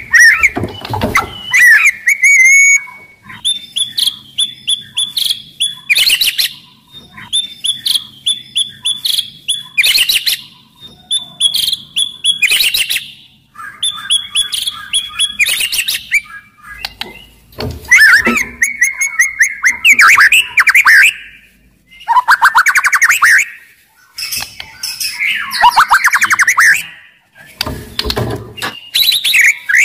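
White-rumped shama singing loudly in varied phrases: quick runs of short repeated notes, trills and harsher chattering bursts, with brief pauses between phrases.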